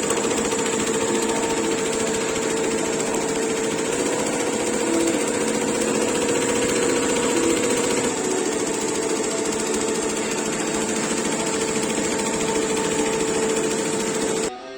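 Embroidery machine running steadily as it stitches, with a steady hum and a high whine. It stops abruptly just before the end.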